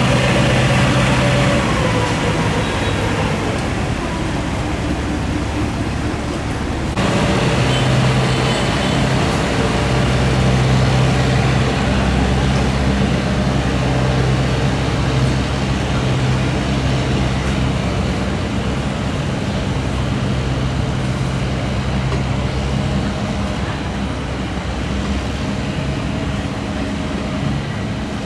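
Boat engine running steadily as the boat motors upstream, its low hum unbroken, with an abrupt cut to a slightly different engine sound about seven seconds in.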